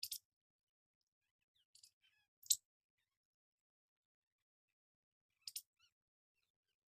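A parrot giving short, sharp high-pitched chirps, four brief ones with near silence between them.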